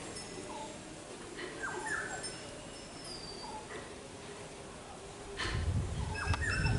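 Mynas calling: a string of short squeaky, downward-sliding notes, thin whistles and clicks. A low rumble comes in near the end.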